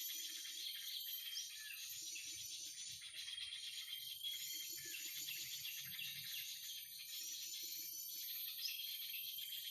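Looped recording of bird calls played as a trapping lure: the same burst of chirps and quick sweeps repeats about every two and a half seconds, over a steady high whine.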